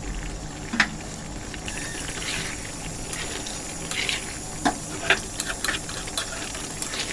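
Chicken curry cooking in a pan, bubbling and sizzling steadily, with a few sharp clinks of a utensil against the pan.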